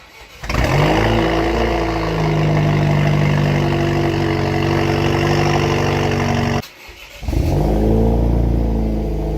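Chevrolet Camaro's 2.0-litre turbo four-cylinder starting up through an exhaust with a newly fitted resonator: it catches, flares briefly, then settles into a steady idle with a resonant bass rather than a high-pitched note. About two-thirds of the way in the sound cuts off abruptly, and the engine is heard starting and settling again.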